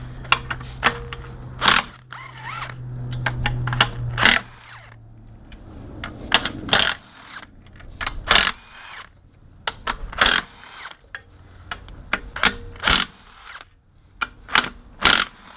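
Hand tools and engine parts clicking and clinking against metal during an engine teardown: irregular sharp metallic knocks, some ringing briefly. A low steady hum runs under the first few seconds, then stops.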